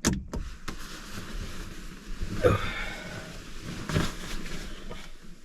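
A dog sniffing and snuffling close to the microphone, with two louder sniffs about two and a half and four seconds in.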